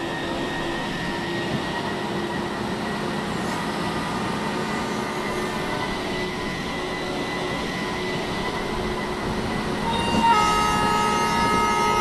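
Electric train running past with a steady rolling noise and a faint steady whine. About ten seconds in, a horn of several held tones sounds and keeps going.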